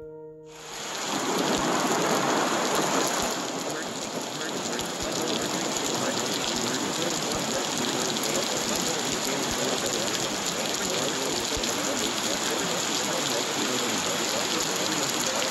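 Steady rain falling: a rain recording that swells in over the first two seconds as a short musical tone dies away at the start, then holds as an even, dense patter.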